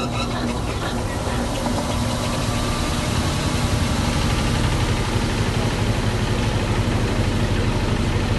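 Small 4 kg washing machine in its spin cycle, the motor and drum running with a steady hum and fast vibrating pulse that grows slightly louder in the first few seconds.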